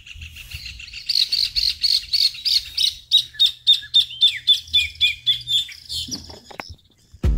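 A songbird singing a long, fast run of loud, repeated high notes, about five a second, which stops about six seconds in.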